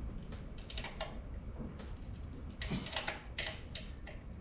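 Irregular metallic clicks and ticks of a hand wrench turning a bolt as it is tightened into the motor mount, with a few louder clicks about three seconds in.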